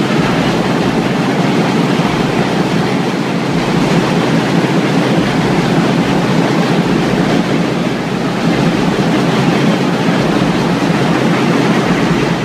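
Fairbanks Morse 32D two-stroke opposed-piston diesel engine running steadily under power: a loud, dense, fast clatter.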